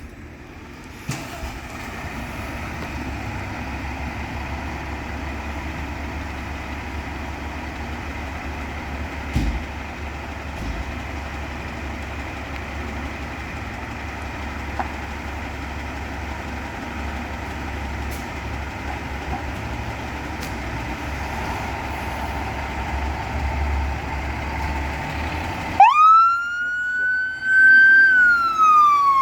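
Fire truck engine running with a steady low rumble, then near the end a siren starts: a wail that rises quickly and falls slowly.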